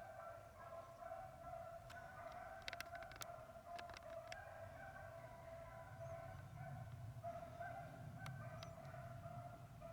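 Beagles baying in the distance as they run a rabbit's track, a faint, continuous chorus of wavering hound voices. A few sharp clicks sound in the middle and again near the end.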